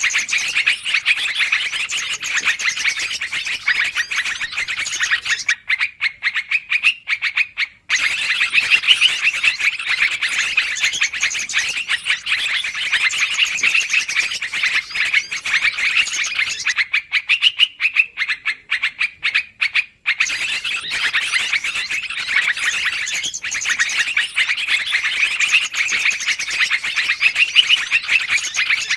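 Yellow-vented bulbuls (trucukan) calling in a dense, rapid chatter, several birds at once. This is a recorded lure call used to draw birds to a trap, and it is broken by two short lulls.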